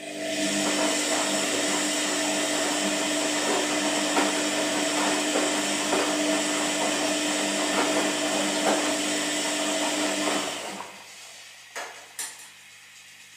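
Washing machine running: a steady motor whir with two steady tones and small knocks through it, winding down about ten seconds in. Two short clicks follow, then a quieter low hum.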